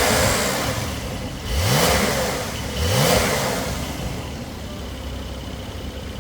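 Porsche 911 Carrera S (992) twin-turbo flat-six, Japan spec without a gasoline particulate filter, blipped twice with the exhaust note rising in pitch each time, then settling to idle about three and a half seconds in.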